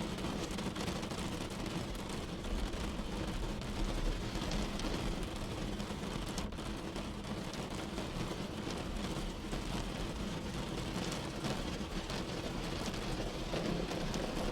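Steady rain falling, a dense patter of individual drop ticks over a continuous low rumble.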